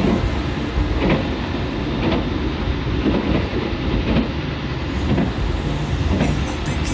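Local passenger train running on the rails: a steady rumble with wheels clicking over rail joints roughly once a second.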